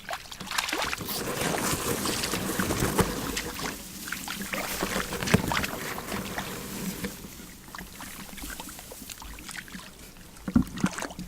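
Water splashing and sloshing in irregular bursts, with many small knocks and splatters. It is busiest in the first half and eases off later.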